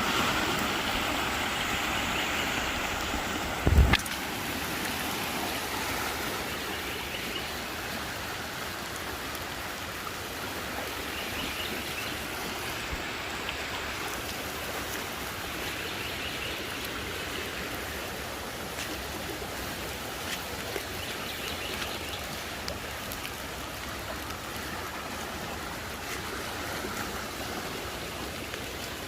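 Rain-swollen creek rushing steadily at flood height. A single low thump comes about four seconds in.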